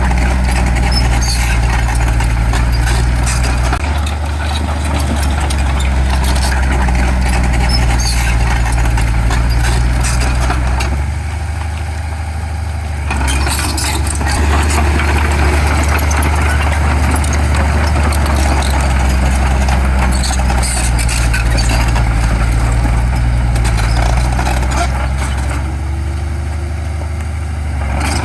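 Heavy diesel earthmoving machinery, a dump truck and bulldozer, running steadily under work with scattered metallic clanks and rattles. The engine note shifts a few times and drops briefly near the middle.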